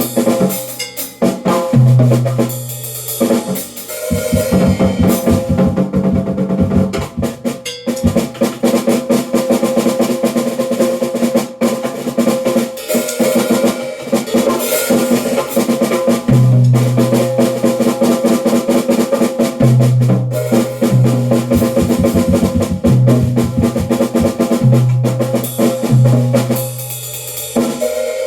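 Drum kit played without a break in fast rolls and fills, the strokes coming thick and rapid, with low drum notes ringing for about a second at a time.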